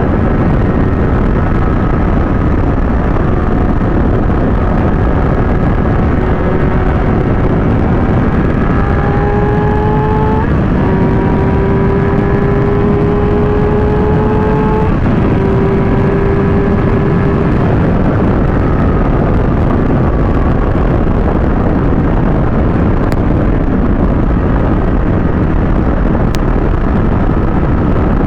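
Kawasaki ZX-6R inline-four engine under way, heavily masked by steady wind rush over the microphone. Its pitch climbs slowly and drops in two steps, about ten and fifteen seconds in, as at upshifts, then sinks under the wind noise.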